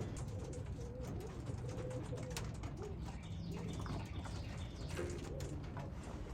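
Racing pigeons cooing, a run of low wavering coos one after another, with scattered light clicks.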